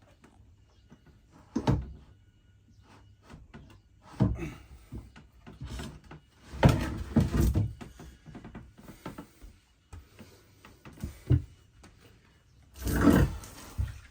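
Irregular clunks, knocks and scraping of a rusty metal water-lift exhaust box being worked loose and pulled out of a sailboat's engine compartment. The loudest stretches of scraping and banging come in the middle and again near the end.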